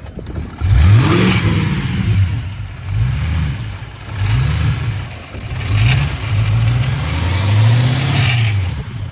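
Twin-turbo car engine with catless downpipes revved repeatedly, about six blips that climb and fall back, some held longer than others.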